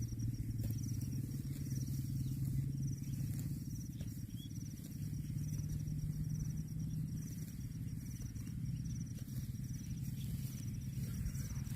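A cricket chirping in a regular, evenly spaced rhythm over a steady low drone.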